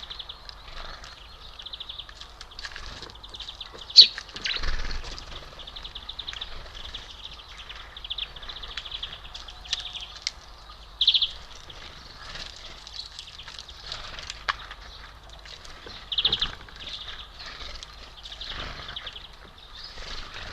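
Songbirds at a bird feeder calling and twittering over and over, in quick trills and chatter, with a few sharper, louder calls standing out.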